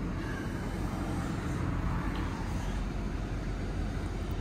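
The 2012 Chevrolet Camaro SS's 6.2-litre V8 idling, a steady low hum heard from inside the cabin.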